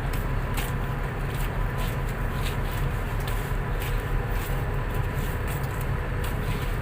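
Tugboat engine running with a steady low rumble, with faint scattered clicks over it.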